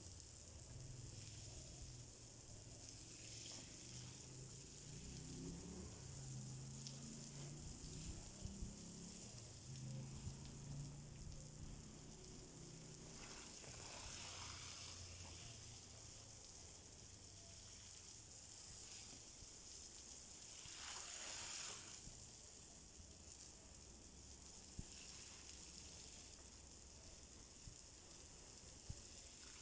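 Faint, steady hiss of running water, swelling briefly twice.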